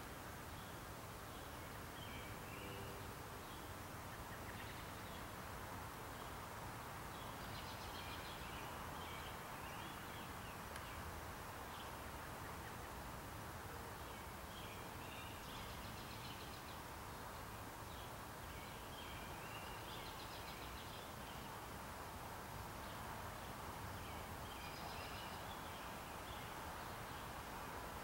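Outdoor ambience: a steady haze of background noise, with a small bird's short calls coming faintly every few seconds.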